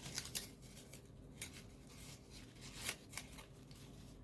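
Folded paper origami units rustling and crinkling as they are handled and slotted together, in short faint crackles, a few louder near the start, around a second and a half in, and near three seconds.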